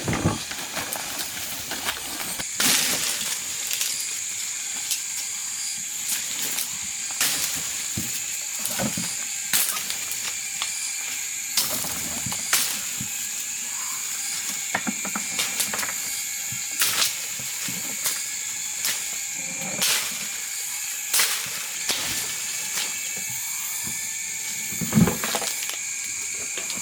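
Irregular sharp knocks and snaps, one every second or two, over a steady high-pitched hum.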